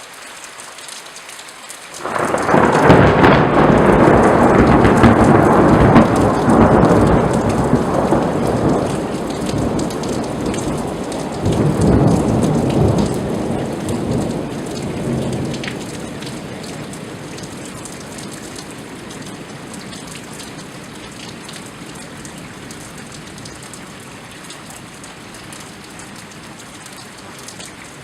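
Steady rain falling, then a loud thunderclap breaks suddenly about two seconds in and rolls on as a long rumble. The rumble swells a second time near the middle and dies away, leaving the rain.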